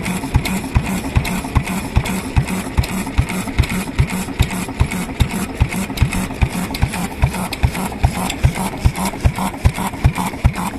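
Kubota AHB kerosene stationary engine, a single-cylinder engine, running steadily at a slow, even speed. Its exhaust beat comes about four times a second.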